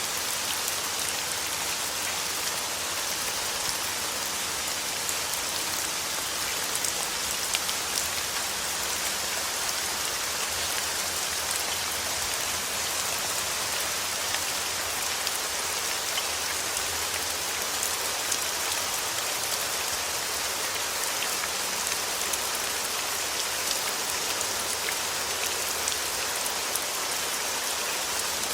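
Steady rain falling, an even hiss strongest in the high range, sprinkled with many small drop ticks.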